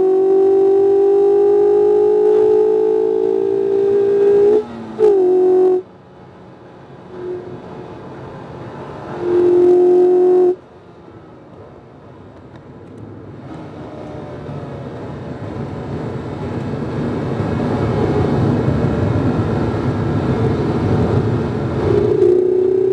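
Mazda MX-5 RF's 2.0-litre four-cylinder engine pulling hard in gear, its pitch slowly rising, with a quick break near five seconds before it drops away. It comes back steady for about a second and drops away again, then a rushing noise builds louder and louder until the engine pulls again with rising pitch near the end.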